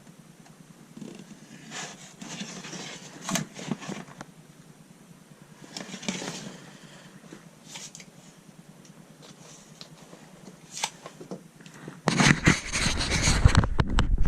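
Bitumen sound-deadening mat being handled and fitted: short bursts of rustling and scraping with a few clicks. About twelve seconds in, a louder, closer spell of rubbing and knocking starts.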